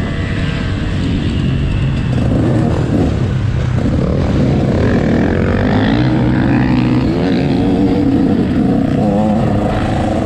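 Motocross dirt bike engine running hard, revving up and falling back as it is ridden around the track, with a heavy low rumble under it.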